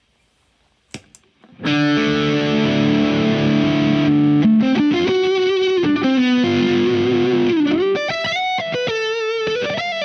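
Electric guitar with P90 pickups played through a Visual Sound Jekyll & Hyde dual overdrive/distortion pedal, giving a distorted tone. A couple of sharp clicks about a second in are followed by a held chord, then single-note lead lines with bends and vibrato.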